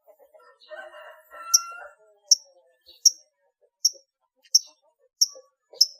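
Long-tailed shrike singing. A brief jumbled warble comes first, then a string of sharp, high, short chips evenly spaced about two-thirds of a second apart.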